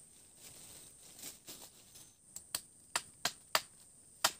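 A series of about six sharp, short knocks, starting about halfway in at uneven spacing, like wood or a blade striking wood during shelter building. Under them runs the steady high drone of forest insects.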